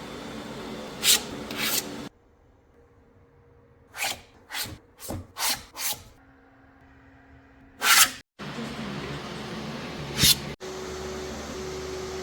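Sharp clicks and knocks of hard parts being handled, in several short bursts separated by abrupt cuts, typical of working a 3D-printed plastic candy dispenser.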